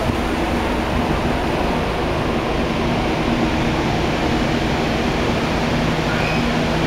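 Waterfall: a steady rush of falling water, with a faint low hum underneath.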